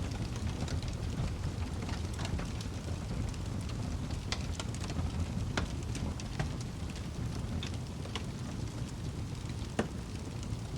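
Wood fire burning in a fireplace: a steady low rumble of flame with irregular sharp crackles and pops from the burning logs, a few louder snaps standing out.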